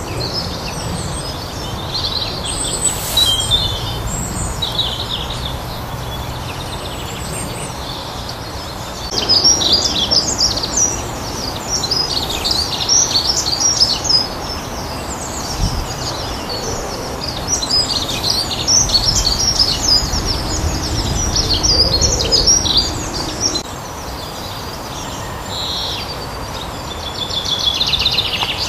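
Wild songbirds chirping and singing, several at once, in busy stretches with quieter gaps, over a steady low background rumble.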